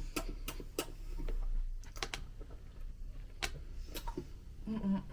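Irregular light clicks and taps, a dozen or so scattered over a few seconds.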